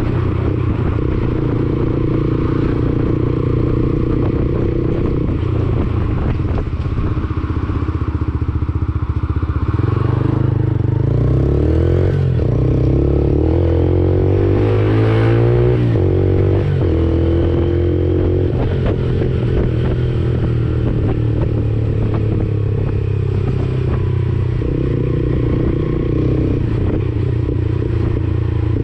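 Lexmoto Assault 125's 125cc single-cylinder engine running through an aftermarket Black Widow exhaust while riding. The engine note is steady at first, rises and falls several times between about ten and seventeen seconds in as the revs change, then settles back to a steady pitch.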